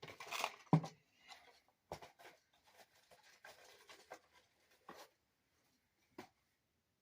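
Branches and sticks of kindling being laid in a fireplace over newspaper: irregular clicks, knocks and rustling of wood, with the loudest knock just under a second in and a last single knock about six seconds in.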